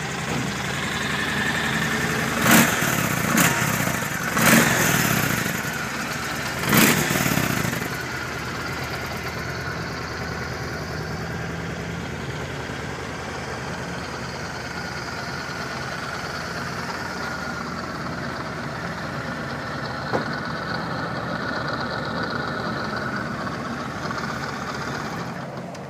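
2007 Yamaha Road Star Warrior's 1670cc fuel-injected V-twin running, the throttle blipped in four short revs in the first seven seconds or so, then settling to a steady idle.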